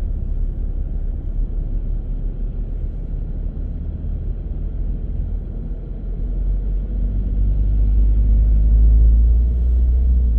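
Car on the move: a steady low rumble of engine and road noise, growing louder in the second half.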